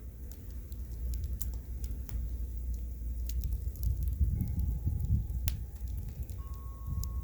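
Bonfire crackling with scattered sharp pops, over a low gusty wind rumble on the microphone.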